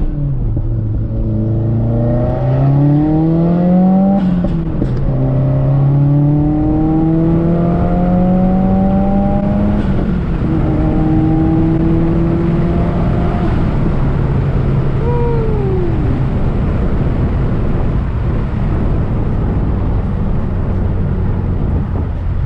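Heavily modified Subaru WRX's turbocharged flat-four engine accelerating hard through the gears. Its pitch climbs in each gear and drops at the shifts about four and ten seconds in, then settles to a steady drone. A short falling whine comes about fifteen seconds in.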